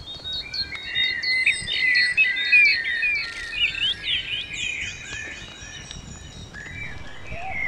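Several songbirds singing together: quick repeated chirps and trills, busiest and loudest in the middle, then thinning out before picking up again near the end.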